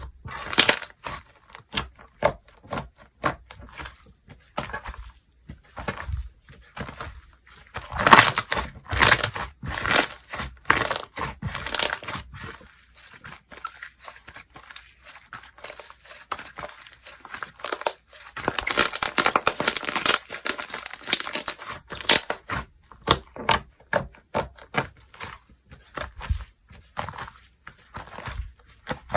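Hands squishing, pressing and stretching slime, giving irregular wet clicks and crackling pops, busiest about eight seconds in and again from about eighteen seconds.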